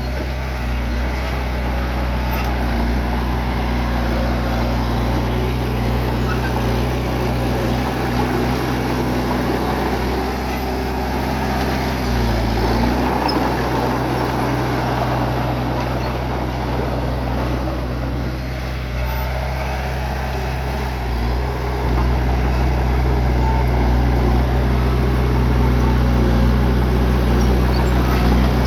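Bulldozer's diesel engine running steadily, its low engine tone overlaid by a dense clattering, grinding noise. It grows a little louder about three-quarters of the way through.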